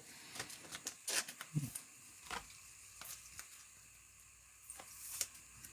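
Faint clicks and rustles of trading cards and their packaging being handled, a scattering of short, sharp ticks.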